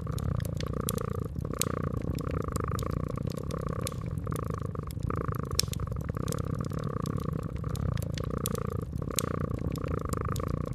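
A cat purring steadily, swelling and fading in even cycles of about one a second, over a crackling wood fire with sharp pops scattered throughout.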